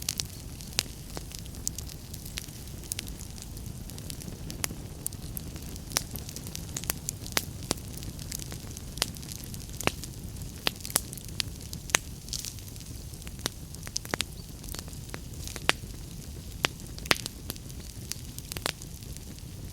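Wood fire crackling, with frequent sharp, irregular pops over a steady low rumble and hiss.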